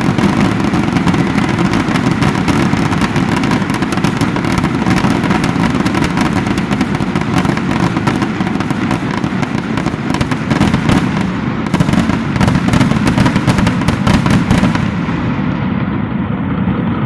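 Fireworks going off in a rapid, continuous barrage of crackling bangs that stops suddenly about fifteen seconds in.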